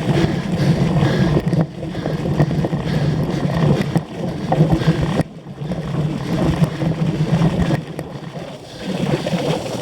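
On-board noise of a cyclocross bike ridden hard over rough ground: a steady rumble of wind on the microphone and tyres on the ground, broken by a few sharp rattles and knocks, and briefly quieter about five seconds in.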